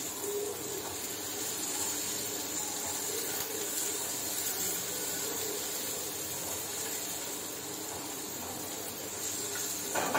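Chopped onion, tomato and cashews sizzling steadily in hot oil in a non-stick kadai, stirred with a wooden spatula. There is a brief louder knock near the end.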